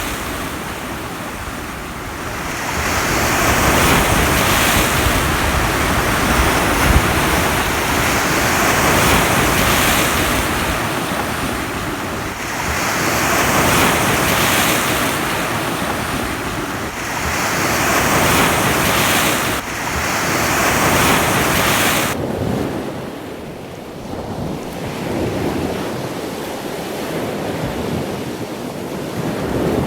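Ocean surf: waves breaking and washing up the beach, the rush swelling and falling back every four to five seconds. About 22 seconds in the sound abruptly turns quieter and duller.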